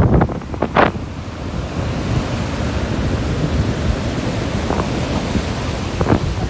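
Ocean surf breaking and washing up the beach as a steady rushing hiss, with wind buffeting the microphone as a low rumble.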